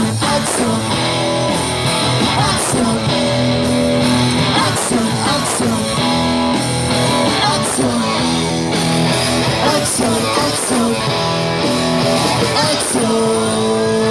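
Rock and roll band playing: guitar over a steady beat of drum hits.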